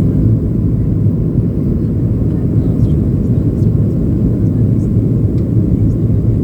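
Steady, loud low rumble of a Boeing 737-800 in flight heard from inside the passenger cabin: its CFM56-7B engines and rushing airflow.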